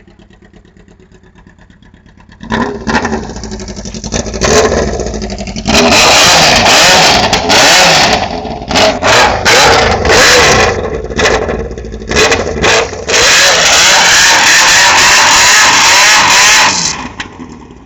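Yamaha R1's inline-four engine running through an open exhaust with the muffler removed. It idles low, then from about two and a half seconds in it is revved hard, very loud, in a series of short blips and long held revs, dropping back near the end.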